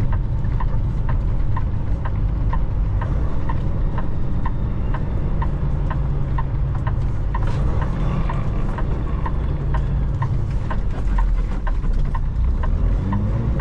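Semi-truck cab: a turn signal ticks steadily about twice a second over the low rumble of the truck's diesel engine and road noise.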